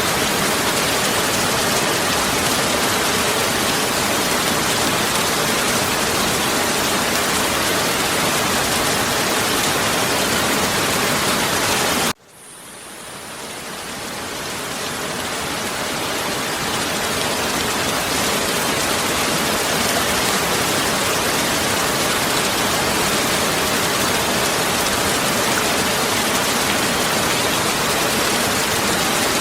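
Heavy rain falling in a dense, steady hiss. About twelve seconds in it cuts out suddenly, then fades back up to full strength over several seconds.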